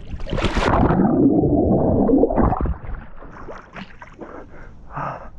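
A person plunging into cold lake water (about 7 °C), with loud splashing and churning for about two and a half seconds and a drawn-out vocal groan under it. After that come a few short, sharp breaths.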